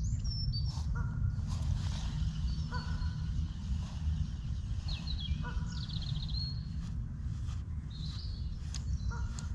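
Wild birds calling: scattered short high chirps and whistles, and a few brief lower calls repeated at intervals, over a low steady rumble.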